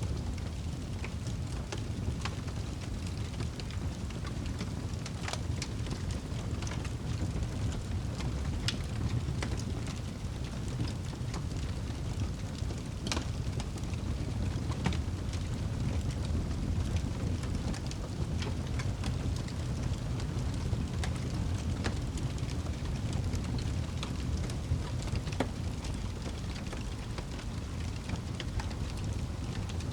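Wood fire burning in a fireplace: a steady low rumble of the flames with scattered sharp crackles and pops from the burning wood, a few louder pops among them.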